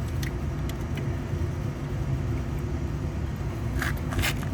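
A steady low rumble, with a few light clicks in the first second and two brief scrapes near the end as wires are handled at terminals.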